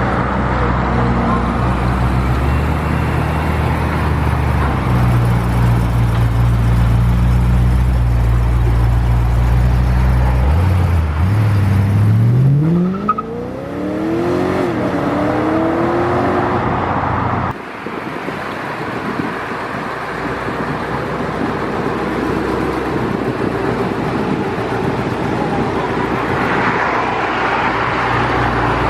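Performance car engines running at low revs, then one revving up in a rising sweep about ten seconds in as it pulls away. About two-thirds through the sound cuts off suddenly and gives way to lower engine and road noise that swells again near the end.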